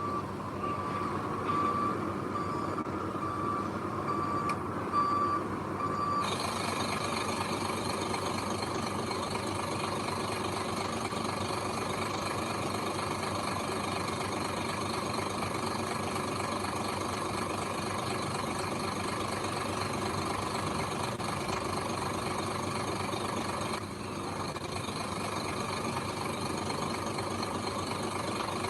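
Heavy machine's reversing alarm beeping at one steady pitch, about twice a second, over a running engine; after about six seconds the beeping stops and the engine runs on steadily, its sound changing abruptly.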